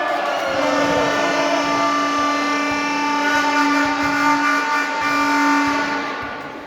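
A long, steady horn-like blast sounding several pitches at once, starting about half a second in and fading out near the end.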